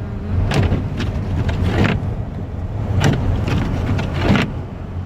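Car driving on a snow-covered road, heard from inside the cabin: a steady low engine and road rumble with tyre noise, broken by about four short knocks.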